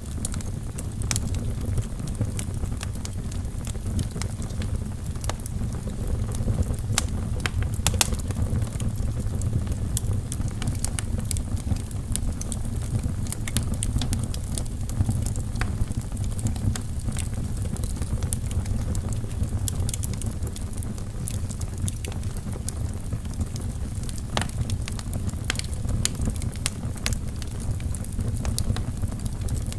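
Wood fire burning in a fireplace: a steady low rumble of flames with frequent irregular crackles and pops from the burning logs, a few of them sharper and louder.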